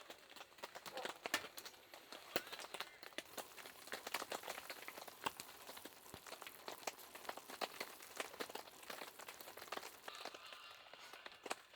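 Rain falling on a camp tarp: irregular sharp drop ticks over a light steady hiss.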